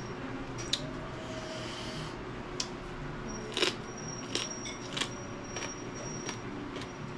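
Close-up eating sounds: chewing with a scattering of short, sharp clicks and crunches.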